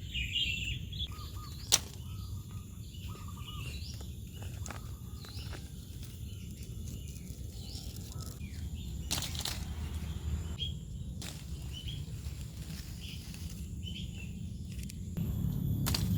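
Outdoor rural ambience while limes are picked from a tree: a steady low rumble with scattered short bird chirps, and a sharp click plus a few brief rustles.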